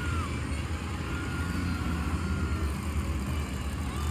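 Monster truck engine running with a steady low rumble in an arena, with faint crowd sounds above it.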